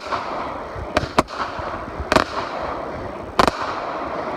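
Fireworks going off: several sharp bangs roughly a second apart, two in quick succession about a second in, over a continuous crackle.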